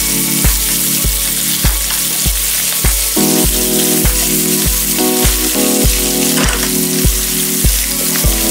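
Minced pork, green onion and dried chilies sizzling in hot oil in a wok while a silicone spatula stirs them. Background music with a steady beat plays under it.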